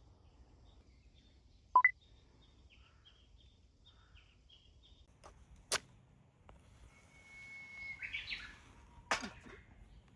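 Birds calling: faint short chirps repeating for a few seconds, then one bird's long held whistle that breaks into a quick flourish of notes. Three sharp knocks or cracks cut across it, the loudest a little under two seconds in.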